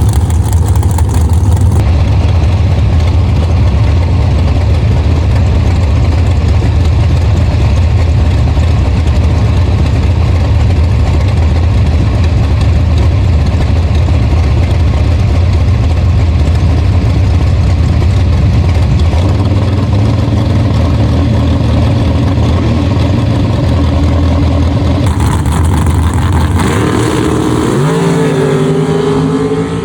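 Drag race car engine running with a loud, steady low rumble. Near the end its note climbs sharply as the engine revs up.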